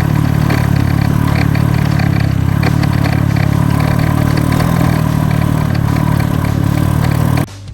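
Small Honda Cub-type motorcycle engine running at a steady, even speed, with a light clatter over it. The sound cuts off suddenly near the end.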